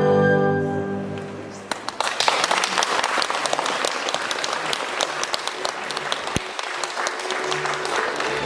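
Recorded music fading out in the first couple of seconds, followed by an audience applauding.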